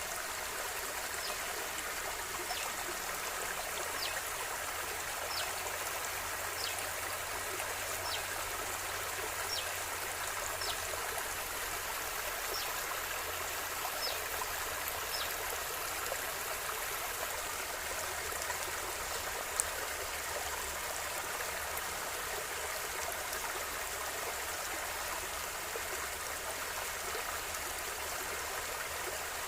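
River water flowing and splashing in a steady rush. A short high chirp repeats about every second and a half through the first half, and there is a single sharp click about two-thirds of the way through.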